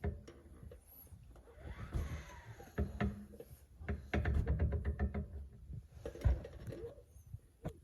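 Irregular clicks and knocks, with a low rumble near the middle, from the raised 2007 Saturn VUE's left rear axle and hub being turned by hand. The mechanic traces the car's humming and rattling to this left rear axle.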